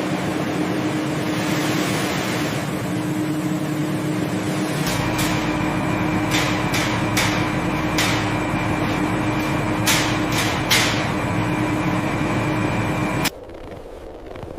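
Steady machine hum with a held tone, joined about five seconds in by a deeper rumble, with a run of about eight sharp clicks or knocks over the next six seconds. The sound cuts off suddenly near the end.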